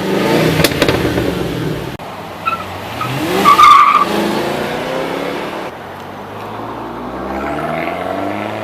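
Supercar engines revving and accelerating hard, one clip cutting to the next, with a brief high tire squeal about three and a half seconds in.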